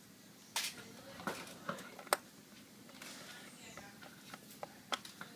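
A scattered series of sharp clicks and taps, about six in all, from small parts being handled and fitted during laptop reassembly, as a small cover goes back on the laptop.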